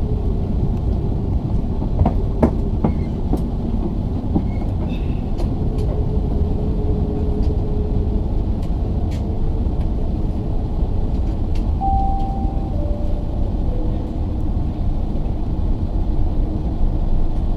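Cabin noise aboard an Airbus A380-861 taxiing: a steady low rumble of the engines at taxi power and the wheels rolling over the taxiway, with a few sharp knocks and rattles about two to three seconds in.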